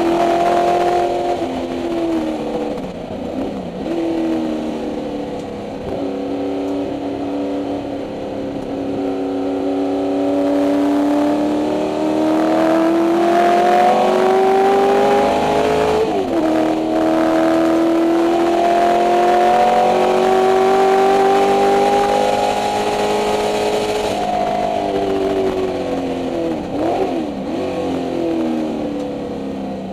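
Ford 289 Windsor V8 of a 1964 Mustang race car at racing speed, heard from inside the cabin. The engine note climbs steadily in long pulls, drops sharply at a gear change about sixteen seconds in, and falls away near the end with quick blips.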